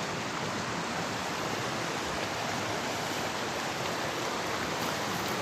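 Steady rushing of a nearby creek and waterfall, an even unbroken wash of water noise.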